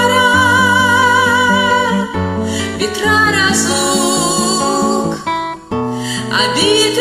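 Acoustic-guitar accompaniment with a voice singing long held notes with vibrato, karaoke-style. The music briefly drops out about five and a half seconds in, then comes back.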